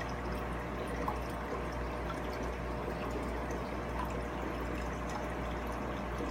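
Steady trickling, pouring water in an aquarium, with a low steady hum underneath.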